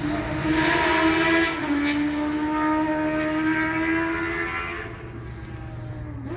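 A passing road vehicle's engine accelerating, its pitch climbing, dropping once about a second and a half in as it shifts gear, then climbing again before fading away.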